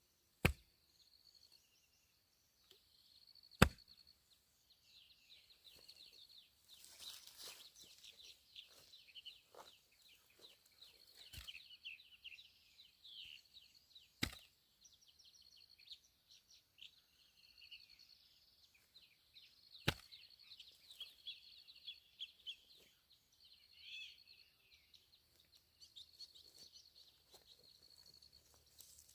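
Five sharp, separate chopping strikes spaced several seconds apart, against a steady high-pitched insect drone and scattered chirps.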